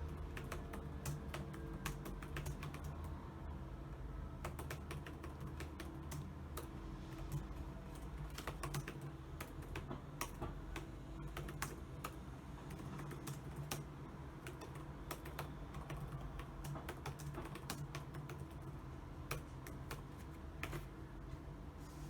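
Typing on a computer keyboard: irregular runs of keystroke clicks with brief pauses, over a steady low hum.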